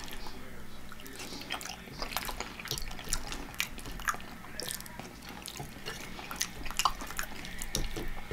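Close-up wet chewing and lip-smacking of a mouthful of creamy Alfredo pasta, a quick run of small sticky clicks and pops.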